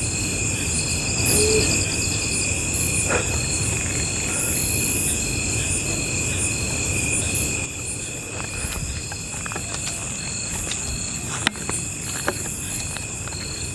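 A night chorus of crickets and other insects trilling steadily at several pitches, one of them pulsing about twice a second, over a low steady rumble.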